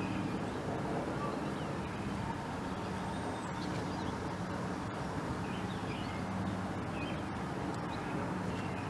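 Steady hum of distant road traffic, with a few faint, short bird chirps over it.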